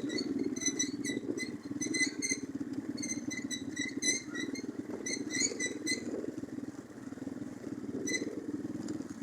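Orion-100 moped engine running steadily in second gear over a rough forest track, with short high squeaks repeating several times a second that stop for a couple of seconds about six seconds in.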